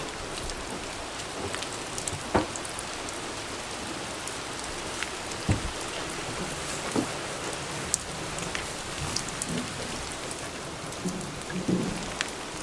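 Steady rain falling: an even hiss with scattered sharp drop impacts.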